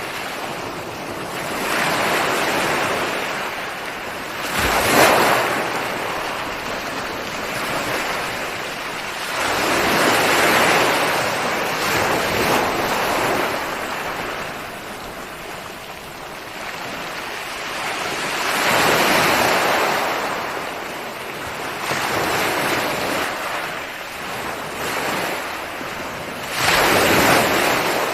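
Ocean waves breaking on a shore, the surf swelling and easing every few seconds, with the sharpest, loudest breaks about five seconds in and near the end.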